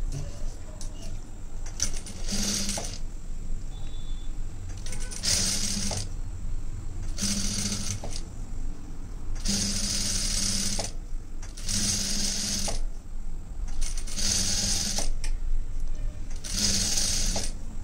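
Sewing machine stitching in about seven short runs of half a second to a second each, stopping and starting between runs, as the folded edge of a blouse neck piece is sewn.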